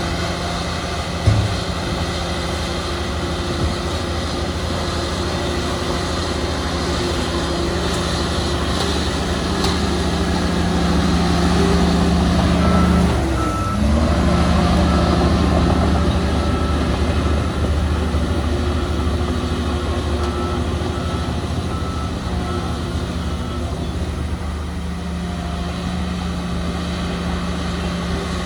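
Heavy diesel earthmoving machinery running steadily, its engine note dipping briefly and recovering about halfway through. A reversing alarm beeps evenly in two runs, one in the middle and one later on.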